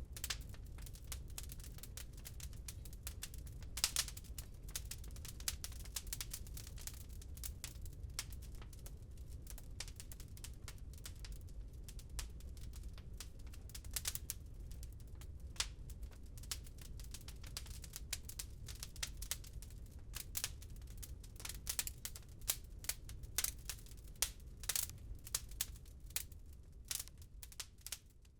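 Wood fire crackling in a fireplace, with frequent irregular sharp pops and snaps over a steady low rumble. It fades down near the end.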